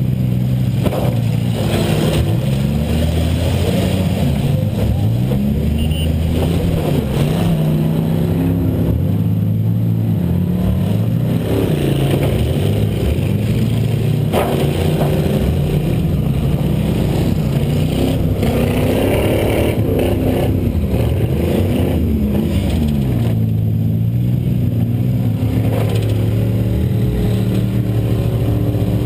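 Inside the cabin of a 2000 Buick LeSabre's V6 demolition-derby car: the engine revs up and down over and over as the car is driven hard, with a few sharp bangs of impact, one about a second in and a louder one about halfway.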